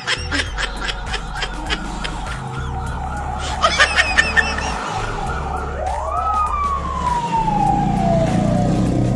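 Comic sound effects edited over a background track: a short burst of warbling, bleating cries about four seconds in, then a siren-like tone that slides up and then falls slowly, over a steady low bass.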